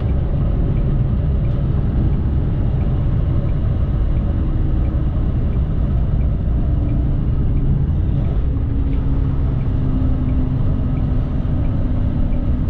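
Semi truck's diesel engine and road noise heard from inside the cab, a steady rumble, with a faint hum that steps down in pitch a few times after about five seconds as the truck slows for the exit.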